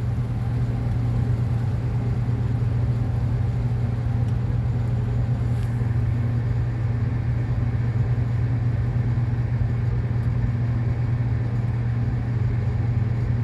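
Steady low mechanical hum, one constant droning tone with no rise or fall, cutting off suddenly at the end.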